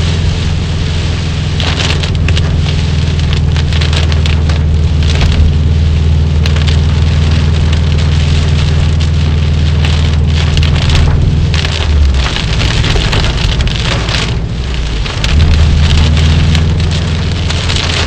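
Heavy rain and road spray hitting a moving car, heard from inside, with gusts of louder splashing. Under it the car's engine hums steadily; the hum drops away about twelve seconds in and returns about three seconds later.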